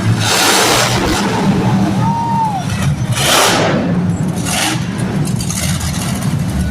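Monster truck engine running hard, with loud revving surges several times over a steady low drone.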